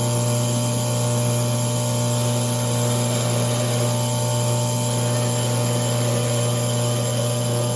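Benchtop drill press motor running at a steady speed, a constant hum with no change in pitch or level.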